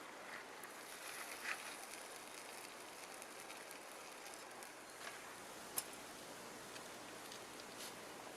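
Faint, steady outdoor background hiss with a few scattered light clicks; the sharpest comes about six seconds in.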